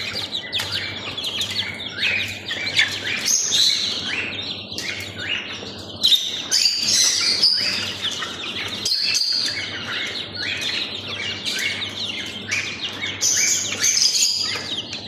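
A flock of two-month-old desi chicks peeping and chirping continuously, many calls overlapping, over a steady low hum.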